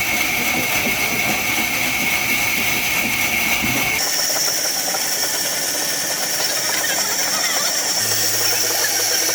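Sawmill machinery running steadily with a high whine; the pitch of the whine jumps abruptly about four seconds in.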